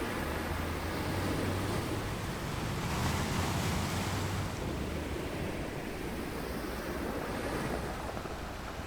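Ocean surf washing onto a beach, a steady hiss of water that swells to a louder wave about three to four seconds in, with a low rumble underneath.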